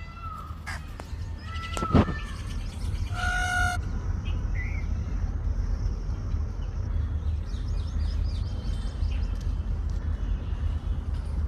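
Indian peafowl giving a few loud calls in the first four seconds: a falling cry, a sharper falling call at about two seconds, then a short flat honk. A steady low rumble follows, with faint chirps of small birds.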